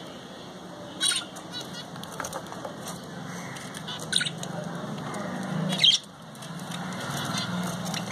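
Small pet parrots calling in short, shrill squawks and chirps: sharp calls about a second in, just past four seconds, and a loudest one near six seconds, with fainter chirps between.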